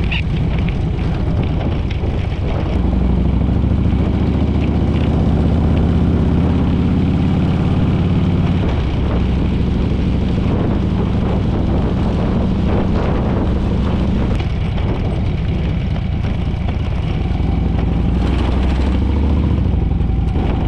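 Harley-Davidson V-twin motorcycle engine running under way. It gets louder about three seconds in, eases off a little past the middle, and picks up again near the end.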